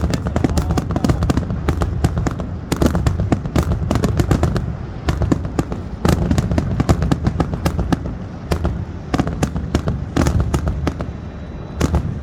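Fireworks finale: a rapid, continuous barrage of sharp bangs and crackles over a low rumble, with no let-up.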